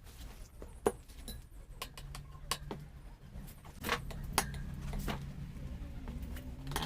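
Irregular metallic clicks and clinks, like hand tools and small metal parts being handled, over a steady low hum.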